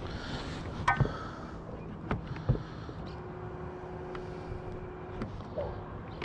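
Terrova electric trolling motor whirring with a steady tone for about two seconds near the middle, the motor spinning in place on its own, a known Terrova fault. A few sharp knocks come in the first seconds.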